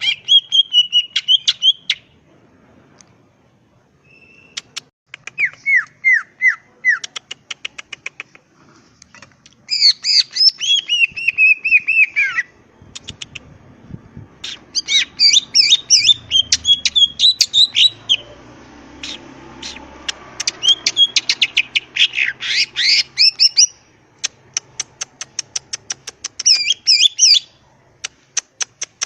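Green leafbird (cucak ijo) singing in loud, varied phrases: rapid trains of clicks, high warbled whistles and down-slurred notes, broken by short pauses.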